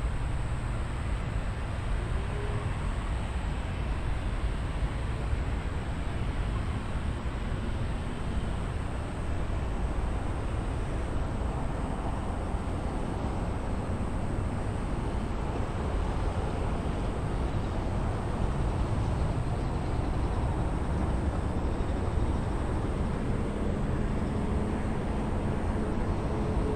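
Steady low rumble of distant jet aircraft at an airport, with a faint engine tone coming up in the last few seconds.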